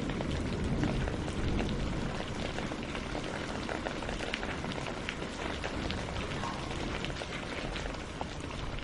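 Steady rain falling, with many separate drops ticking close by over a soft, even hiss. A low rumble under it is stronger at first and gradually eases off.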